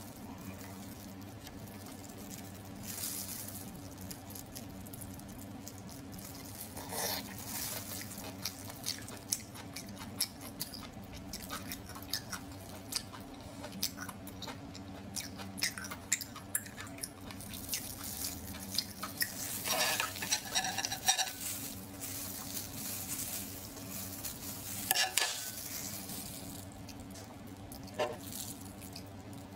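Close-up eating sounds of a person chewing and biting cooked octopus: wet mouth clicks and short smacking bursts, several louder ones about 3, 7, 20 and 25 seconds in, over a steady low hum.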